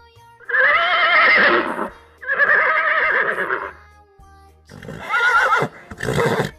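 A horse whinnying four times in a row, each neigh a loud, quavering cry of a second or so, over soft background music.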